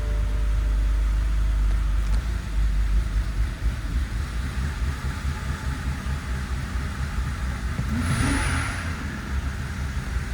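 BMW 528xi's 3.0-litre inline-six engine running with a steady low rumble, swelling briefly about eight seconds in.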